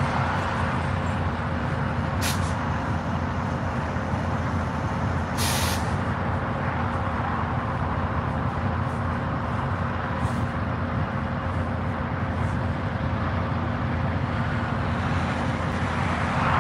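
Trinity Railway Express diesel locomotive running steadily with a low engine hum, and two short bursts of air hiss from the train's air brakes, a brief one about two seconds in and a longer one a few seconds later.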